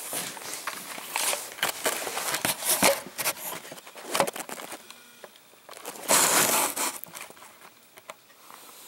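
Irregular clicks, rustling and crackling handling noise, with a louder rushing noise about six seconds in.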